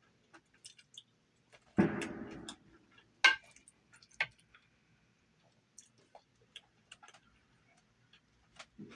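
Close-miked eating and table sounds: scattered small clicks and taps, with a short crackly burst about two seconds in and a sharp click a second later.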